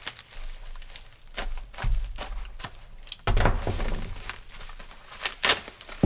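Packaging being handled and opened: crinkling plastic and irregular clicks, with a couple of dull thuds about two and three seconds in as parts are moved or set down.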